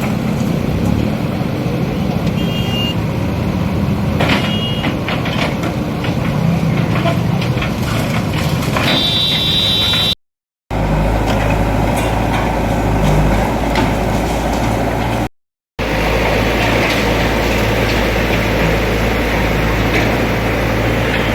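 A heavy diesel vehicle engine running steadily amid outdoor street noise, heard across three clips joined by two brief silent cuts. A short high tone comes about nine seconds in.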